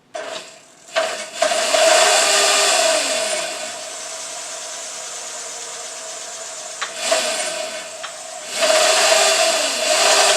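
Electric motor of a homemade motorbike, fed from a bench power supply at up to 31 volts, switched on and running with a steady whine and a hiss. It surges louder twice, about a second in and again near the end.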